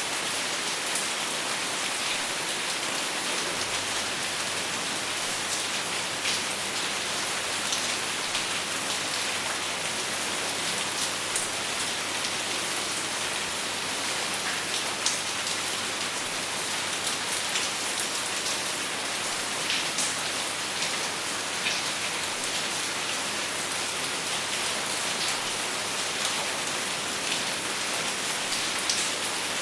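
Steady rain without thunder: an even hiss of rainfall with many close, distinct drops pattering on a surface.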